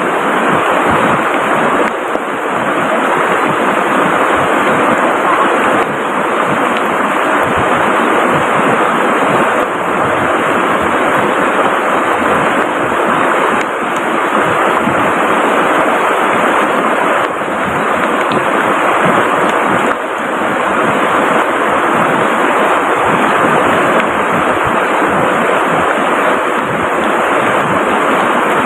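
Heavy tropical rain together with a rushing river, making a loud, steady, unbroken rush of water noise.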